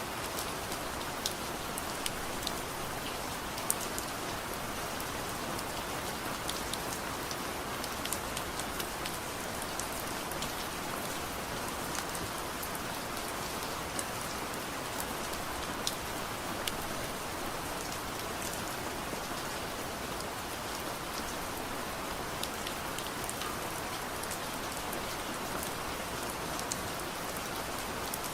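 Steady soft rain, a dense even hiss, with many small sharp ticks scattered through it.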